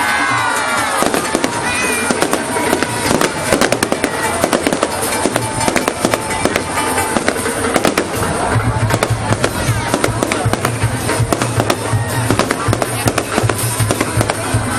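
Fireworks display: rapid bangs and crackling of bursting shells over music, with a pulsing bass beat coming in about halfway through.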